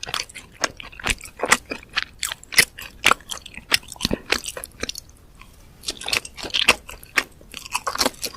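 Close-miked chewing and crunching of food in the mouth, a quick irregular run of wet crunches and clicks, with a short pause just past halfway.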